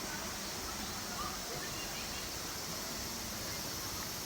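Steady rush of a river's flowing water, unbroken.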